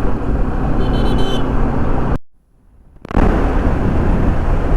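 Steady road-travel rumble of a running vehicle and wind, with a short horn toot about a second in; the sound drops out almost completely for about a second midway before the rumble returns.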